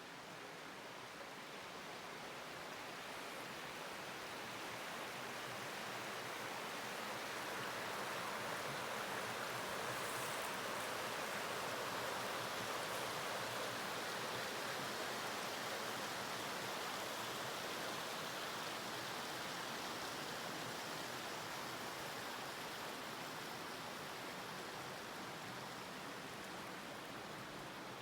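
A mountain stream rushing steadily, a continuous even wash of water that swells a little midway and eases again.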